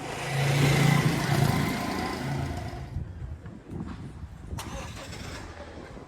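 A motor vehicle passes close by, its engine and tyre noise swelling to a peak about a second in and fading away over the next two seconds.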